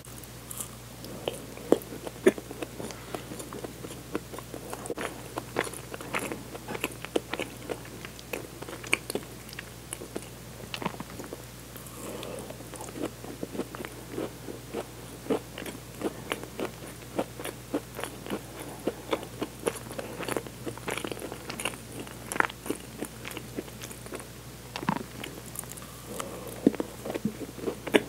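Close-miked biting and chewing of a baked cheese tart: a dense, steady run of quick wet mouth clicks and smacks, loudest about two seconds in.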